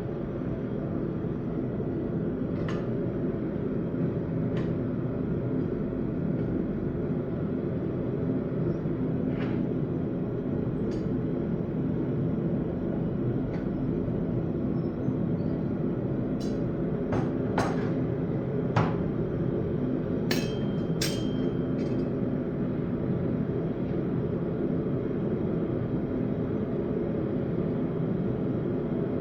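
A forge running with a steady, even rumble. A dozen or so light metal clinks sound over it now and then, most of them bunched together just past the middle.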